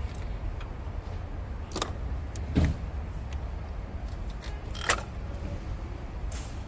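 Hands and a tool prying a rubber hose off a plastic purge valve fitting in the engine bay, giving three short sharp clicks and knocks over a steady low background rumble.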